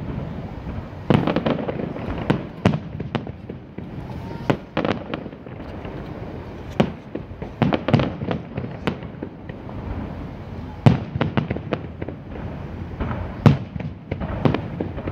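Aerial firework shells bursting: irregular sharp bangs, some coming in fast clusters, over a steady background rumble.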